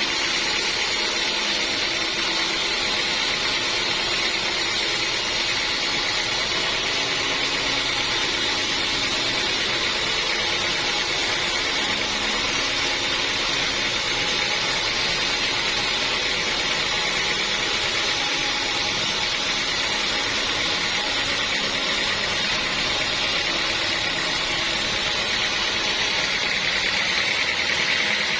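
Sawmill saw running steadily: a constant high whine and hiss over a low machine hum, with no break or change.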